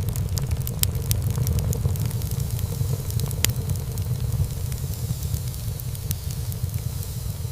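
Wood fire burning in a fireplace: a steady low rumble of flames under a soft hiss, with scattered crackles and pops of burning wood. One sharper pop comes about halfway through.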